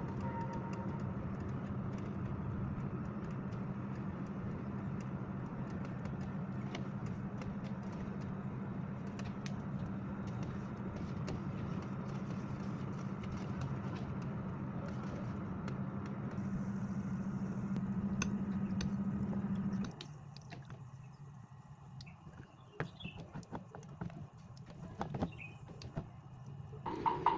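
A motor running with a steady hum that cuts off suddenly about two-thirds of the way through, followed by scattered clicks and knocks.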